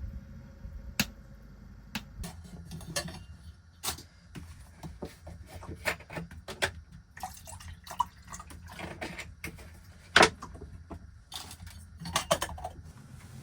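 A series of irregular clicks, taps and knocks, as of small objects being handled, over a low steady rumble, with the sharpest knock about ten seconds in.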